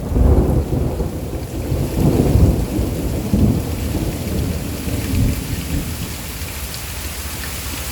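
Thunder from a close lightning strike, a deep rolling rumble that peaks several times over the first six seconds and fades away, over steady heavy rain.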